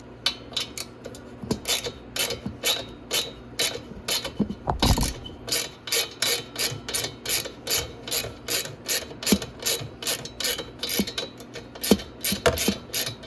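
Ratchet wrench clicking steadily as a 10 mm bolt holding an ATV muffler is turned out, with a heavier knock about five seconds in.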